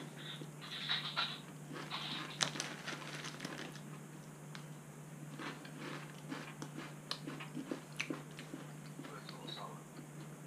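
Close crunching and chewing of Hickory Sticks, thin hickory-flavoured potato sticks, in short irregular crackles, with the foil snack bag handled as a hand reaches in. A low steady hum underneath.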